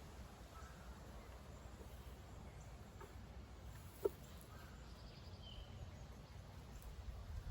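Faint outdoor ambience: a steady low rumble with a few faint bird chirps, and one sharp click about four seconds in.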